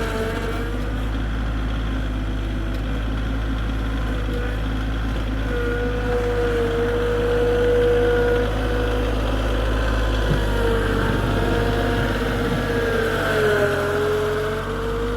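Tractor engine running steadily, with a pitched whine that wavers up and down and drops out for a moment now and then.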